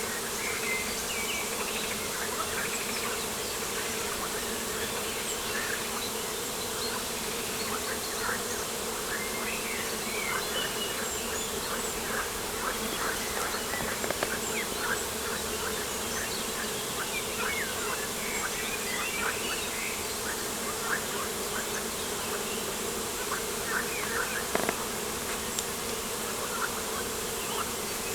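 Steady buzzing of flying insects such as bees or flies, with many short, high bird chirps scattered throughout.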